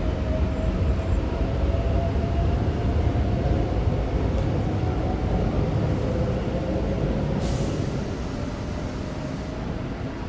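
Electric train running: a steady low rumble with a faint tone that drifts slightly down in pitch, and a short hissing burst about seven and a half seconds in.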